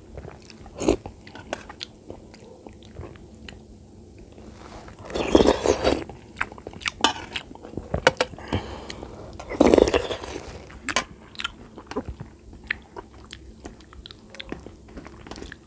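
Close-miked eating: a person chewing and smacking with many short wet clicks while eating milk vermicelli (sevai) by spoon from a steel tray. Two louder bursts of noise come about five and ten seconds in.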